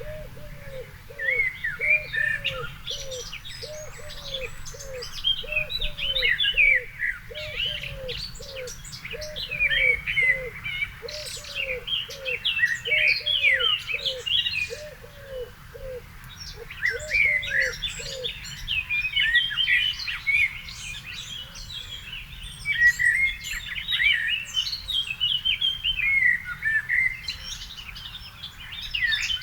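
Several songbirds singing together in an evening chorus of quick, varied chirping phrases. Beneath them, a low cooing note repeats about twice a second and stops about two-thirds of the way through.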